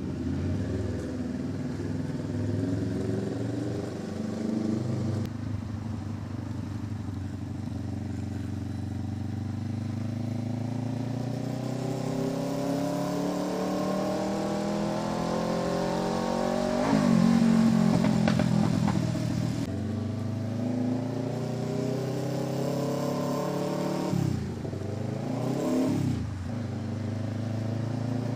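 Kawasaki Ninja 650 parallel-twin with an SC Project exhaust, ridden on the road. The engine note climbs steadily as the bike accelerates and peaks a little past halfway, then the revs drop and pick up again twice near the end.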